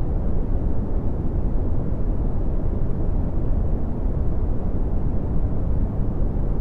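Steady red (Brownian) noise: an even, deep rumbling hiss with most of its energy in the low end, falling away toward the highs, unchanging throughout.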